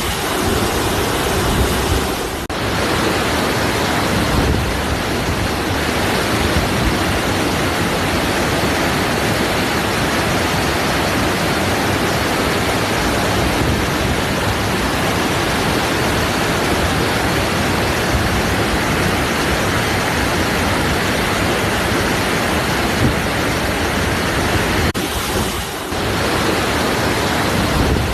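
Waterfall: a steady, dense rush of falling water, dipping briefly twice, once near the start and once near the end.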